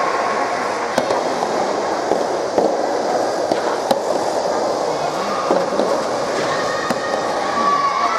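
Soft tennis rally: the soft rubber ball popping sharply off the rackets about every second and a half, over a steady murmur of venue noise.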